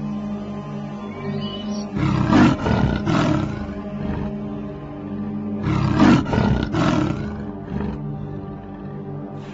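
A leopard roaring twice, each call a run of several strokes lasting about a second and a half, over steady background music.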